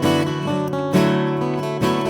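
Acoustic guitar strumming chords, with an accented strum about once a second.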